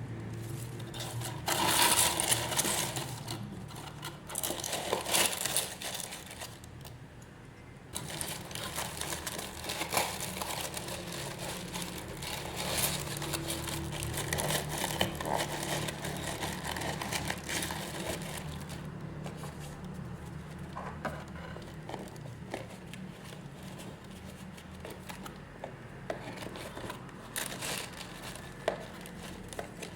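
Packaging being handled: plastic wrap and bags crinkling and rustling in irregular bursts, with occasional tearing, as orders are packed.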